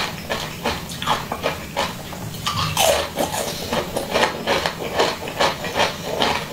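Close-miked chewing of a bead-studded jelly candy ring: wet, sticky mouth smacks and clicks about two or three a second, with one louder smack a little before the middle.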